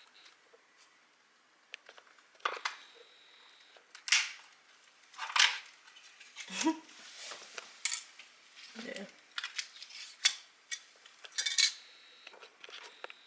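Irregular clattering and rustling of small hard objects being handled and set down, a dozen or so sharp knocks and scrapes spread over several seconds.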